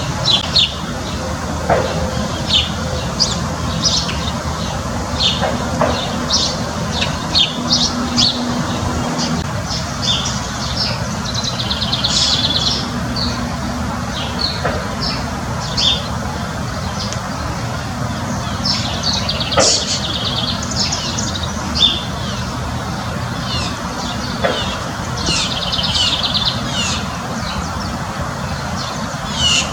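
Backyard songbirds chirping and singing, with short calls throughout and fast trilled songs about twelve, twenty and twenty-six seconds in, over a steady low rumble.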